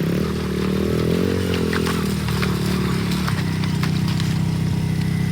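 An engine running, its pitch wavering for the first three seconds or so and then holding steady.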